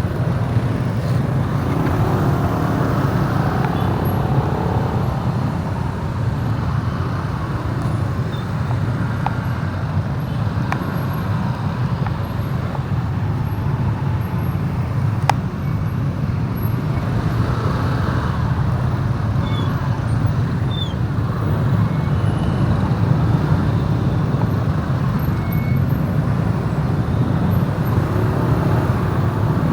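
Motorbike ride through road traffic: a steady low engine and road rumble with other vehicles passing, and a single sharp click about halfway.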